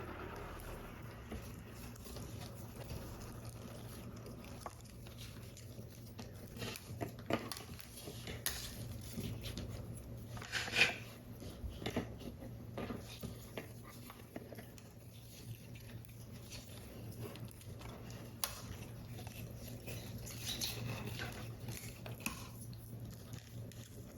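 Paper and card being handled during paper model assembly: scattered soft taps, light rustles and small scrapes, with a louder rustle about eleven seconds in.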